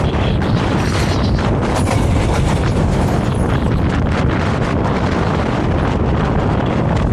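Vario LF2R.E tram running along the track: a loud, steady rumble of wheels on rails, broken all through by many small knocks and rattles.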